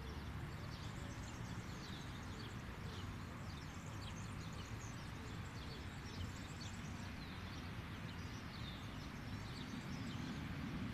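Many short bird chirps scattered throughout, over a steady low rumble of outdoor background noise.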